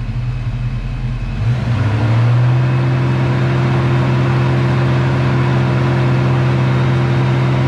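1990 Ford Mustang SSP's 5.0 L V8 being given gas: the engine note rises about a second and a half in, then holds steady at the raised speed. The engine is running rich, which the owner puts down to leaking fuel injectors.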